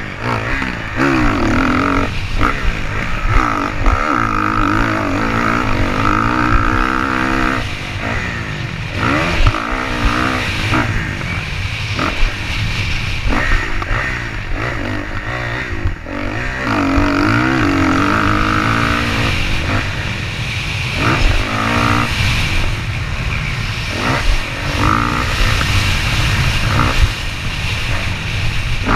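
Motocross bike engine being ridden, revving up and easing off again and again over a steady low rumble.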